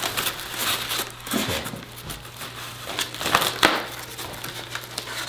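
Packing material crinkling and crunching as a heavily packed shipping box is unpacked, with irregular rustling, scraping and a few sharp crackles.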